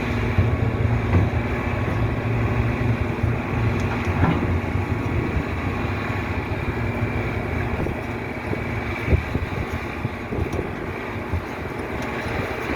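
Steady low rumble of a heavy vehicle's engine, with a few short knocks.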